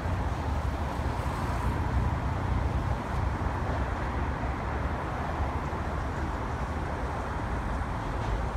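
Low, steady rumble of a DRS Class 68 diesel freight train drawing away along the track, mixed with wind buffeting the microphone.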